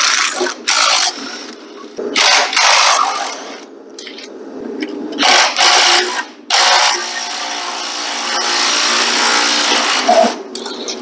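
A power tool run in several short bursts of under a second to a second and a half, then held on steadily for about three seconds before stopping near the end.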